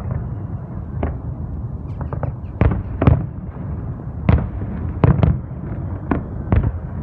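Fireworks display: aerial shells bursting in irregular sharp bangs, about ten in seven seconds, over a steady low rumble.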